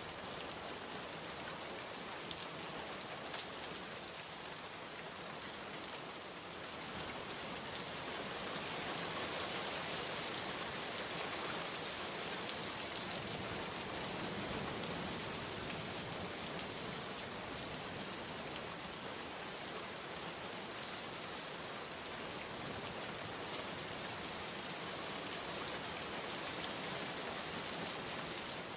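Steady rain falling, an even dense hiss of drops that swells slightly a few seconds in.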